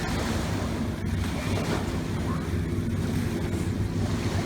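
Wind on the microphone, a steady low rumble, over the wash of surf on a beach.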